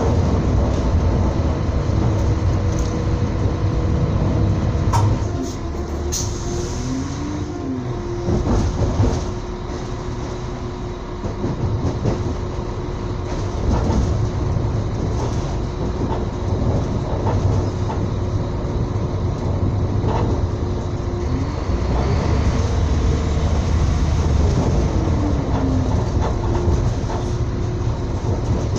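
Passenger train running, heard from inside the carriage: a steady low rumble with the clatter of wheels over rail joints. A steady hum runs underneath and bends down and back up in pitch a couple of times.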